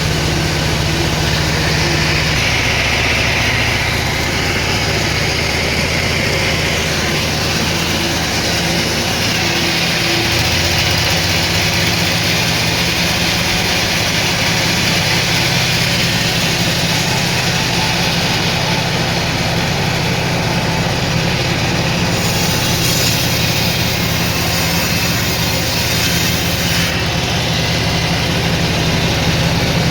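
Sawmill machinery running: a loud, steady mechanical drone with a low hum. A brighter hiss joins in from about 22 to 27 seconds in.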